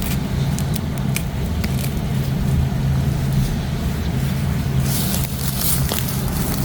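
Steady low rumble under scattered crackles and rustling of plants being dug and pulled, with a louder rustle about five seconds in.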